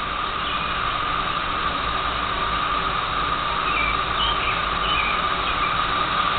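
Garden hose spraying water: a steady hiss, with a low hum underneath.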